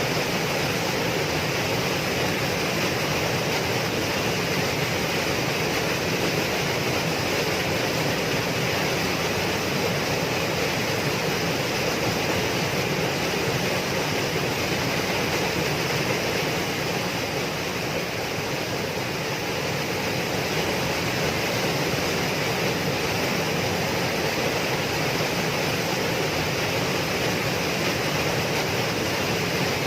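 Waterfall: falling water rushing in a steady, even roar of noise, with a slight dip in level about eighteen seconds in.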